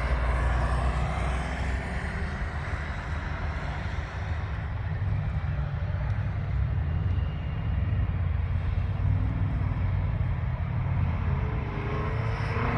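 Car engines running as cars lap the track, a steady low rumble that carries through the whole stretch.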